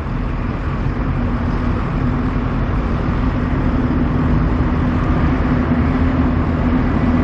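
Steady motor-vehicle engine rumble with a constant low hum throughout.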